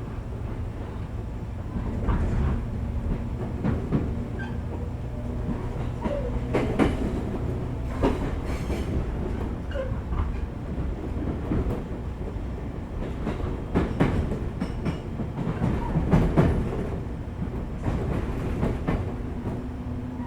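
415-series electric train heard from inside a motor car while running: a steady low rumble of wheels on rail with a motor hum, and irregular sharp clacks as the wheels pass over rail joints.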